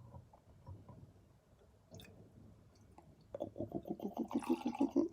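Almond milk poured from a carton into a milk frother's jug, glugging in quick repeated pulses. It starts about three seconds in, after a few faint small clicks.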